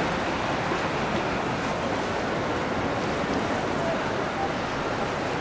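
Steady rushing wash of water stirred up by boats moving on the river, with some wind noise.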